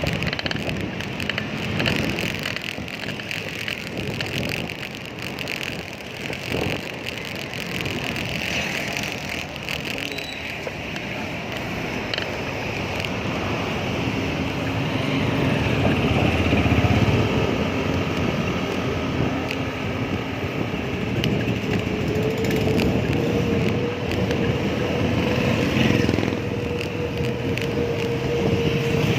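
Road noise heard from a moving bicycle: passing traffic and wind on the microphone, with a steady engine hum in the second half.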